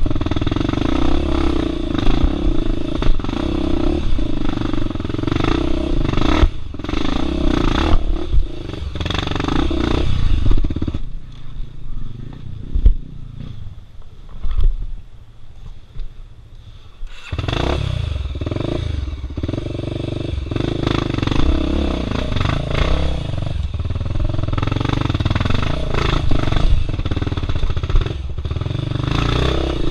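A single-cylinder trail motorcycle, a Honda Tornado with a 293 cc engine, labours over rock, with throttle blips and the clatter and knocks of the bike on stones. Between about 11 and 17 seconds the engine goes much quieter, then comes back abruptly and runs on.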